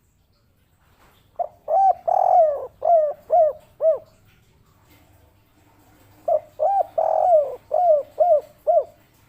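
Spotted dove (derkuku/tekukur) cooing its 'kuk 3' song twice. Each phrase is a short note, a long drawn-out coo, then three short 'kuk' notes.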